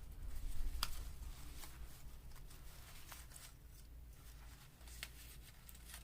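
Paper cutouts being sorted through by hand: soft rustling with a handful of light clicks and taps, a little louder in the first second.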